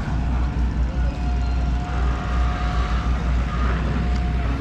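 Backhoes' diesel engines running with a steady low rumble. A thin, steady whine comes in about a second in and stops near the end.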